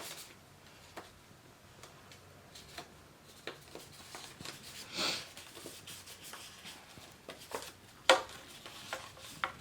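Cardstock paper being handled and pressed down: light rustles and small taps, a short rub about five seconds in and a sharp click near eight seconds.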